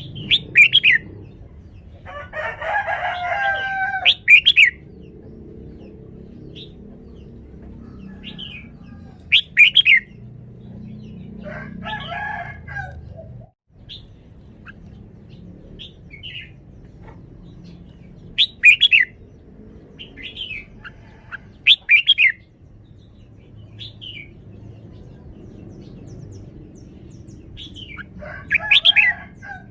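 Red-whiskered bulbul singing short, loud, bright phrases spaced several seconds apart. Three lower, harsher chattering calls come about two seconds in, near the middle and near the end.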